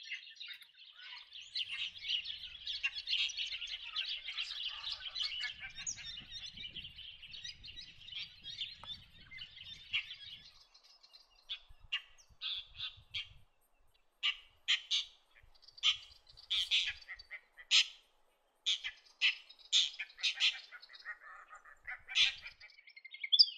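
Birds calling: a dense run of harsh chattering for about the first ten seconds, then separate short, sharp calls.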